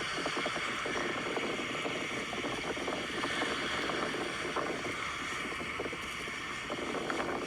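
Steady wash of ocean surf on a beach, with some wind on the microphone.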